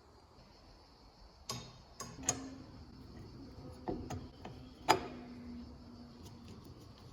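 A handful of sharp clinks and knocks, about six in three and a half seconds with the loudest near the end, one of them leaving a low ring that fades out over a few seconds.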